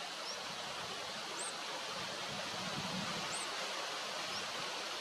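Steady outdoor hiss of natural ambience, with a short, thin, high bird chirp repeating about every two seconds and a couple of fainter rising chirps in between.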